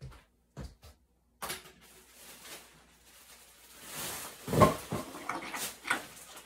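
Household cleaning noises: a few short knocks, then rustling and handling of objects with sharp clunks, the loudest a heavy thump about four and a half seconds in.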